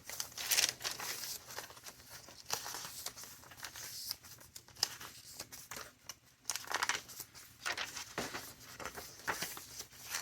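Paper rustling and crinkling as the thick pages of a chunky handmade junk journal are turned and handled, with irregular swishes and crackles of stiff papers, ephemera and tracing paper.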